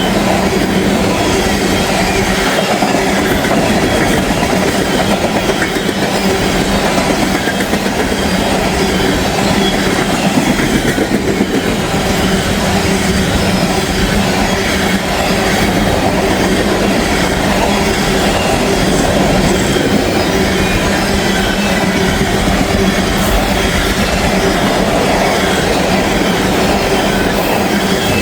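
CSX ethanol tank-car freight train passing at speed: a loud, steady rush of steel wheels on the rail with clickety-clack and a steady low hum.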